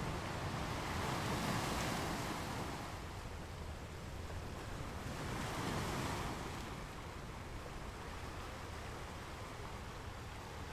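Sea water washing and splashing, swelling up twice, over a low steady rumble.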